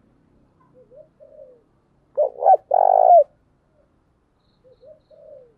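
Spotted dove cooing as a lure call. Soft low coos come about a second in and again near the end. Between them, about two seconds in, is a loud call of two short notes and one longer note.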